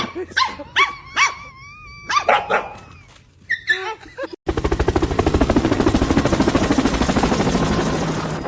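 A dog giving short, high yips and barks in quick succession. About four and a half seconds in, a cut brings a loud, harsh, rapidly pulsing noise that lasts to the end.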